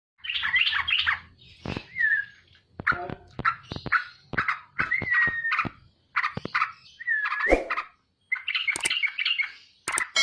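Yellow-vented bulbul (terucuk) singing in rapid, chattery bursts of phrases with short whistled slurs, repeated every second or so, with a few sharp knocks in between.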